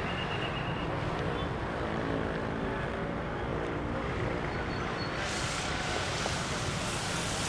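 Wind rumbling on the microphone over a steady outdoor din, with some faint wavering tones in the middle of it.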